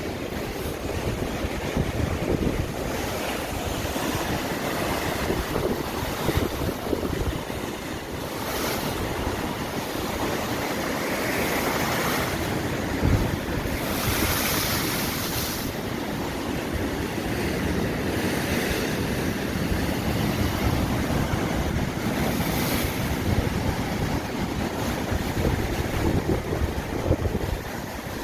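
Sea surf breaking and washing on the shore, with gusty wind buffeting the microphone in a steady low rumble. The hiss of the surf swells up several times, most strongly about halfway through.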